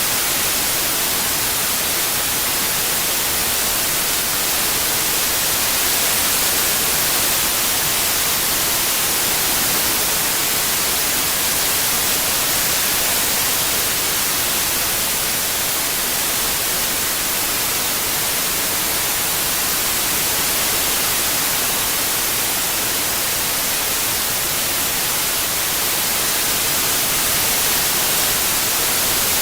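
Steady white noise, an even hiss with most of its energy in the high frequencies and no changes or events, played as a tinnitus masking sound.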